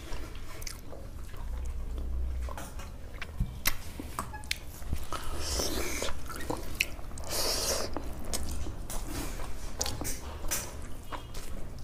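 Close-up mouth sounds of a person eating rice and curry by hand: chewing, with many small wet clicks and smacks, and two short breathy hisses around the middle.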